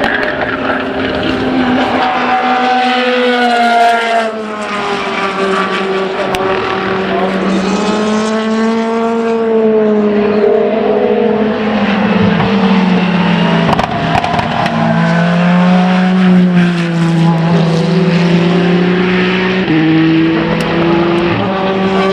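Race car engines at speed on a circuit, several cars heard at once, their notes rising and falling as they pass and change gear.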